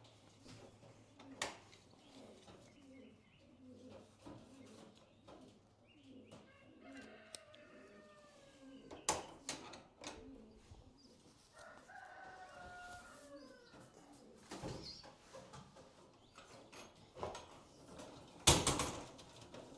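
A rooster crowing twice in the background over faint low cooing of pigeons, with scattered knocks and a loud rustling burst near the end.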